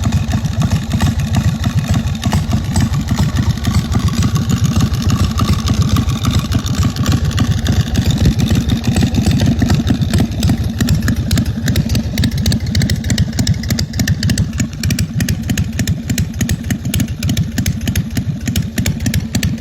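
Harley-Davidson V-twin motorcycle engine running steadily, with a rapid, even pulsing exhaust beat.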